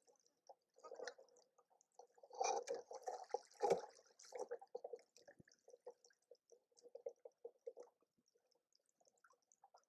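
Water sloshing and splashing against the hulls of a Hobie Cat 16 catamaran under sail, in faint irregular bursts that are loudest a few seconds in.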